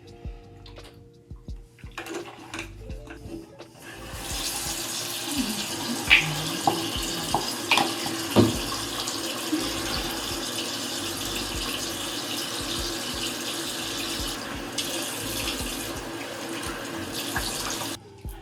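Bathroom sink tap running steadily while a face is washed under it, with a few sharp splashes and knocks early on; the water starts about four seconds in and is shut off near the end. Before it comes on, only a few small clicks of handling.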